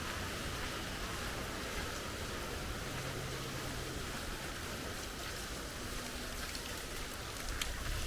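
Steady rain falling, an even hiss, with a faint low hum about three seconds in.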